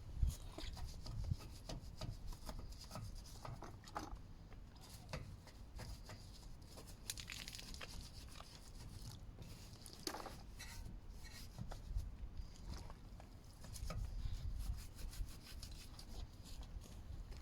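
Hand scrubbing on a car as it is cleaned: irregular rubbing and rasping strokes with small clicks.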